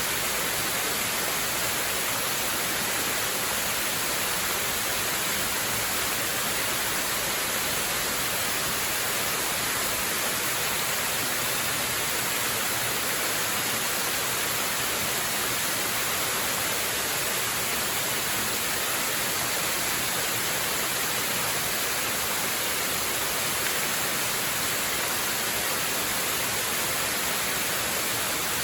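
Waterfall running steadily: an even, unbroken hiss of falling water, strongest in the high range with little low rumble.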